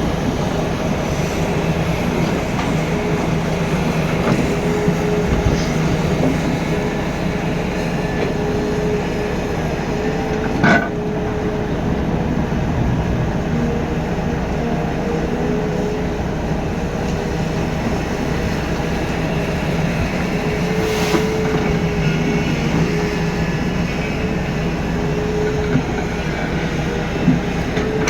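Volvo FMX dump truck's diesel engine running steadily under a constant low hum, with rattling and a few sharp knocks, the clearest about ten seconds in.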